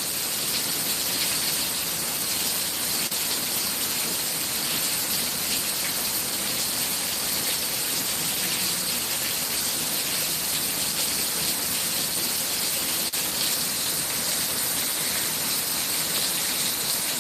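Torrential thunderstorm rain pouring down hard, a steady, unbroken hiss of a downpour.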